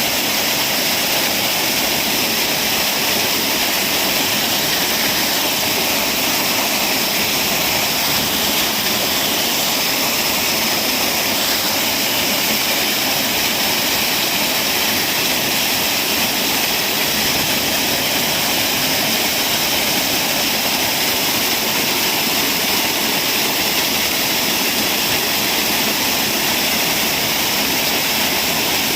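Waterfall: falling water rushing in a steady, unbroken hiss, mostly high and light with little low rumble.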